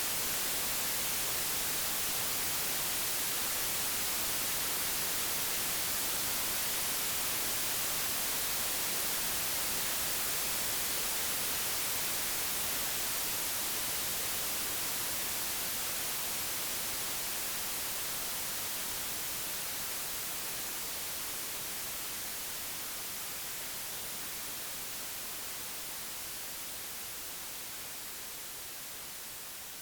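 Digitally generated pure white noise: a steady, even hiss with no tones or events, slowly fading in level over the second half.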